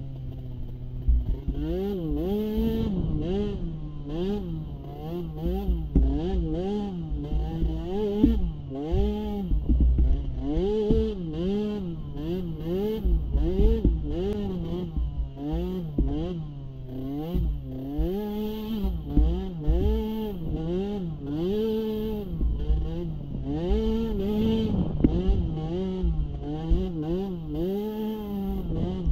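Small youth ATV engine revving up and down about once a second as the throttle is worked on and off, with low thumping underneath.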